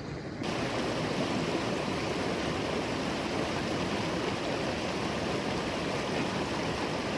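Waterfall and fast mountain stream rushing steadily, the sound coming in suddenly about half a second in.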